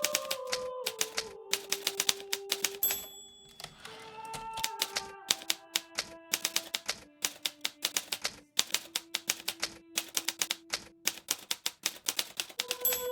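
Hermes Baby portable typewriter being typed on at a steady pace, several keystrokes a second, with a short break in the typing about three seconds in.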